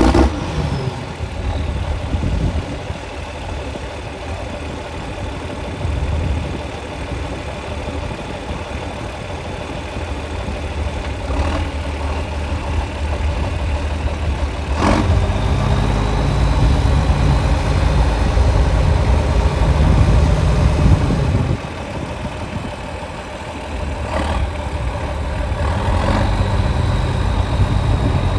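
John Deere 4440 tractor's turbocharged six-cylinder diesel running just after a start, at a steady idle at first. It is brought up louder for several seconds from about halfway through, then drops back about three-quarters of the way in and rises a little again near the end.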